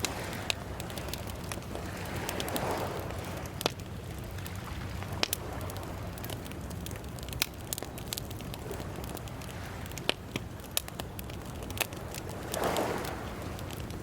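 Wood fire crackling, with sharp irregular pops. A soft rushing sound swells up twice, a couple of seconds in and near the end.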